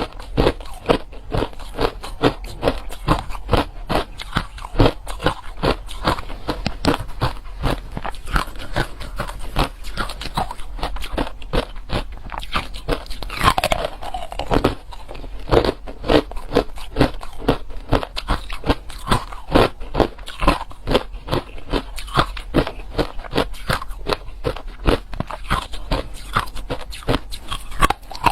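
A person biting and chewing ice close to the microphone: loud, rapid crunches, several a second, going on without a break.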